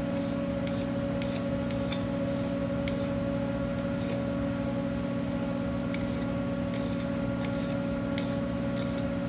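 A small hand file used as a scraper, making short irregular scraping strokes on the worn, burred metal of a lathe feed-clutch part, with a pause near the middle. A steady machine hum runs underneath.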